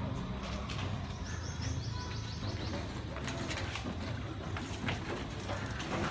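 Birds calling outdoors, with a quick run of high chirps a little after a second in, over a low steady rumble.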